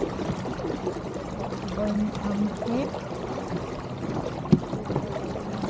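Water trickling and lapping along the hull of an Elliott 7.4 keelboat under sail, with a single sharp knock about four and a half seconds in.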